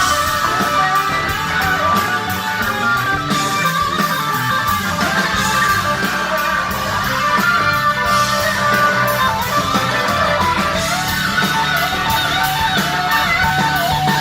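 Live rock band playing, with electric guitar lines over bass and drums.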